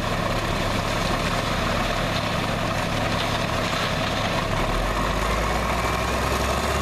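Heavy vehicle engine idling steadily, a low, even drone.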